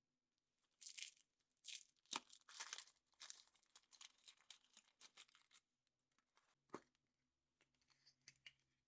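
A thin wrapper being torn open and crinkled by hand, in a string of short irregular rustles, with a sharp click about two seconds in and another near seven seconds.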